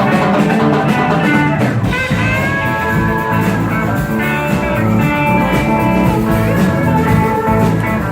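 Live rock band playing an instrumental passage led by guitar, with a steady low bass line underneath.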